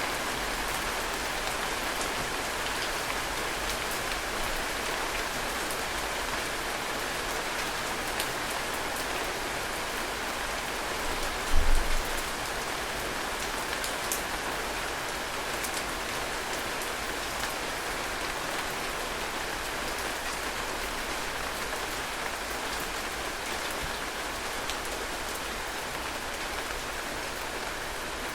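Heavy rain falling steadily, a dense even hiss with sharp individual drops ticking through it. A brief low thump a little before halfway is the loudest moment.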